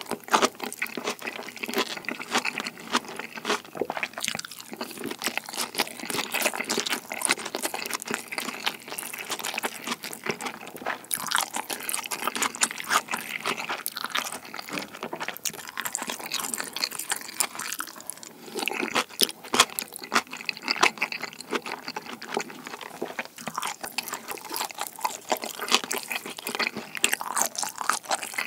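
Close-miked chewing of kimchi pizza tangsuyuk with rice: crunching of fried battered pork together with crisp vegetables, plus wet mouth sounds, in an irregular run of crackles with short pauses.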